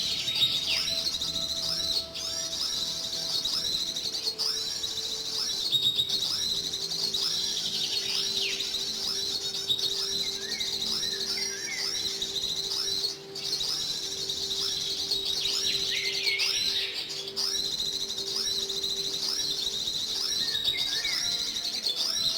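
Small birds chirping continuously: rapid, repeating high, sweeping chirps with a faint steady low hum underneath.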